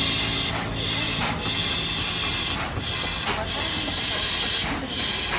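Electric commuter train at a station: a steady loud hiss with a low rumble underneath, dipping briefly a few times.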